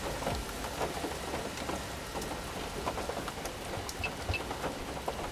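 Steady hurricane rain falling and pattering on surfaces, many small drop impacts over a low rumble; two faint short beeps about four seconds in.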